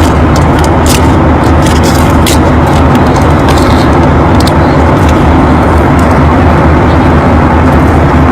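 Steady, loud low rumble of an airliner cabin in flight.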